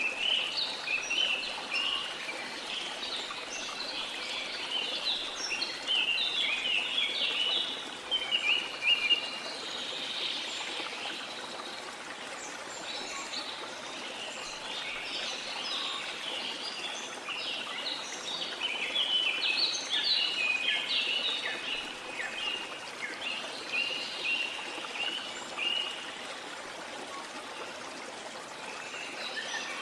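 Many birds chirping and calling in a busy chorus over the steady rush of a waterfall; the chirping thins out for a moment partway through.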